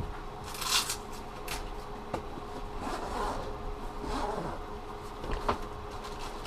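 Duffel bag being unpacked: irregular rustling and scraping of the bag and its packaged contents, with a few sharp knocks, over a steady low hum.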